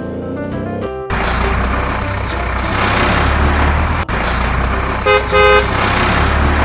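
Cartoon truck engine sound effect coming on suddenly about a second in and running with a heavy low rumble, with two short horn toots just after five seconds. A children's music tune plays briefly at the start.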